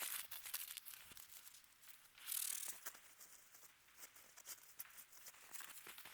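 Campfire crackling with small irregular pops and snaps, and a brief louder rustle a little over two seconds in.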